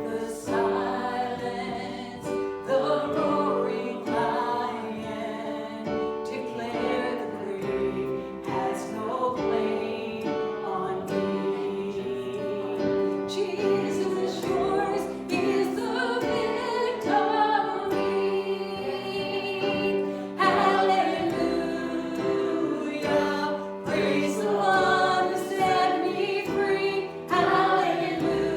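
Group of voices singing a gospel worship song with instrumental accompaniment.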